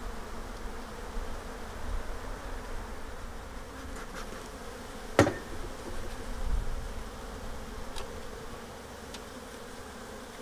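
Honeybees buzzing steadily around an open hive. A single sharp knock about halfway through, with a few faint clicks.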